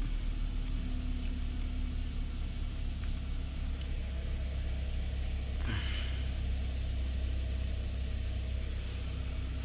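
2013 Hyundai Sonata's 2.0-litre turbocharged four-cylinder GDI engine idling steadily just after being started, heard from inside the cabin. A brief faint sound falls in pitch about six seconds in.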